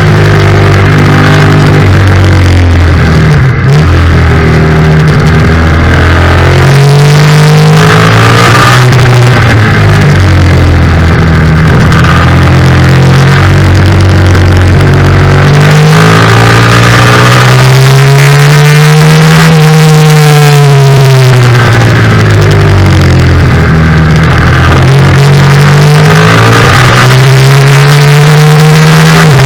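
Yamaha FZ-07's parallel-twin engine at race pace, its pitch climbing and dropping again and again as the throttle and gears change, with one long smooth rise and fall past the middle. A steady rush of wind noise runs underneath.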